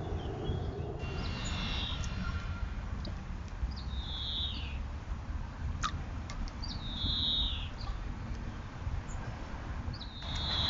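A bird calling four times, each call a short high note sliding downward, about every three seconds, over a steady low rumble, with a sharp click near the middle.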